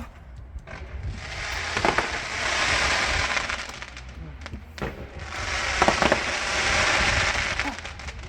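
Fireworks going off: two long crackling showers, each opened by a sharp bang, the first about a second in and the second about halfway through.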